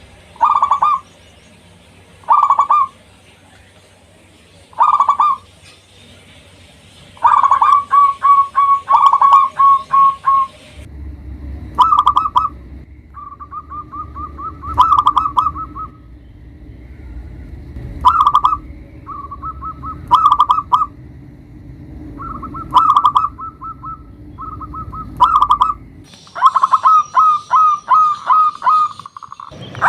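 Local perkutut (zebra dove) singing its cooing song: short rapid-pulsed phrases every second or two, then from about seven seconds in longer, fast stuttering runs of notes at much the same pitch. The background changes abruptly twice, where separate recordings are joined.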